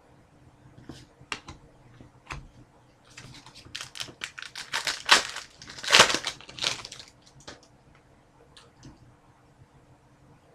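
Trading-card pack wrapper being torn open and crinkled by hand: a few light clicks of handling, then a dense crackling burst in the middle, loudest about six seconds in, before it settles back to faint clicks.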